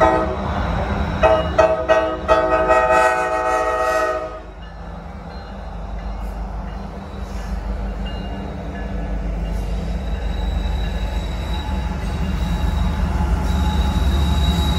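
A Norfolk Southern diesel locomotive's air horn gives a few short blasts, then one long chord of about two seconds. After the horn stops, the diesel locomotives of a loaded coal train rumble, growing louder as they pass close by. Near the end a thin high wheel squeal starts.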